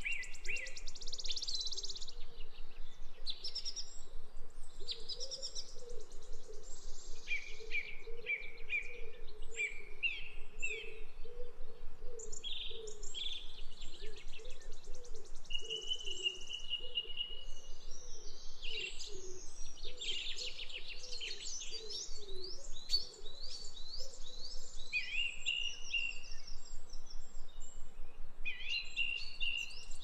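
Several birds singing together: a dense, continuous chorus of short high chirps and trills, with a lower wavering call beneath for most of it.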